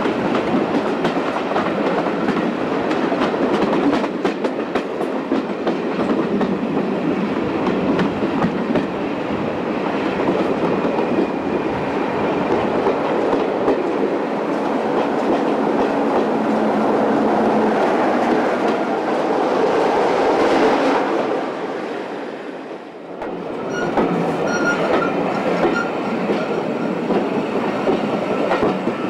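Passenger coaches of a diesel-hauled train running along the line: a steady rumble and clatter of wheels on the rails. About two-thirds through the noise swells and then drops out briefly as another diesel-hauled train passes on the adjacent track.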